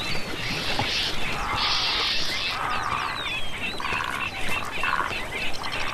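Wild birds calling: several short downward-sliding whistles and a run of separate harsh, buzzy calls.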